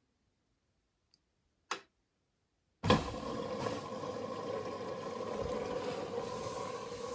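Beko WMB 71643 PTE front-loading washing machine starting up: a short click, then about a second later a steady rushing noise with a faint hum begins suddenly and keeps going, as the machine begins working its programme.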